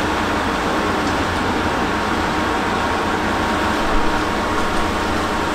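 Stationary Chichibu Railway electric train at a platform, its rooftop air-conditioning and onboard equipment humming steadily. There is a small knock about four seconds in.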